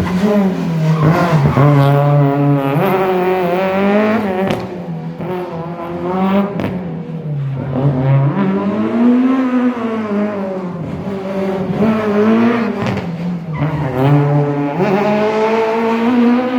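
Rally car engine revving hard up and down over and over, its pitch rising and falling every second or two.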